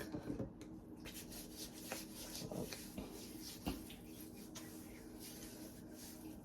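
Faint rubbing and small handling clicks of hands smoothing lotion onto skin, over a steady low hum.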